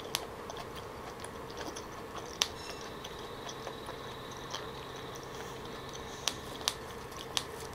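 Close-miked mouth sounds of chewing soft, fatty raw salmon belly marinated in soy sauce, with the mouth closed: a few faint, sharp wet clicks scattered over a steady low room hum.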